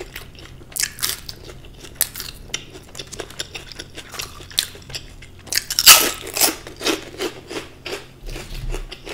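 Close-miked crunching and chewing of a crispy deep-fried chilli pakora, with irregular crisp crunches and the loudest run of crunches about six seconds in.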